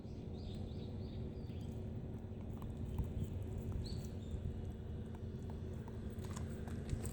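A Shiba Inu gnawing on yellowtail bones: scattered crunches and clicks over a low rumbling noise, with a few faint high chirps in the first few seconds.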